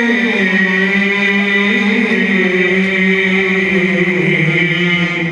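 A male munshid chanting a religious nasheed unaccompanied, holding one long note that drifts slowly downward in small steps.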